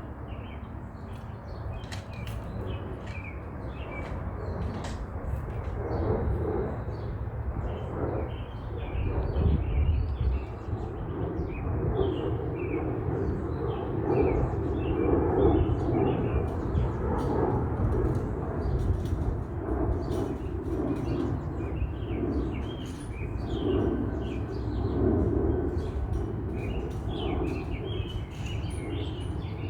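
Small birds chirping repeatedly in short, quick calls over a low, uneven rumbling noise that grows louder about six seconds in.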